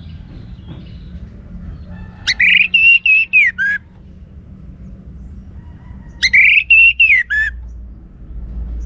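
Orange-headed thrush singing: two short phrases of loud, clear whistled notes about four seconds apart, each closing on a lower falling note. A low steady hum runs underneath.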